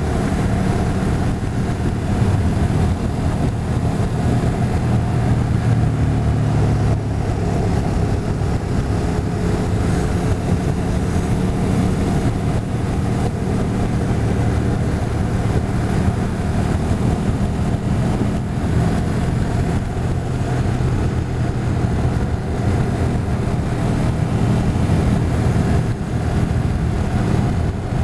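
Motorcycle on the move, its engine running steadily at a constant speed with wind and road noise over it.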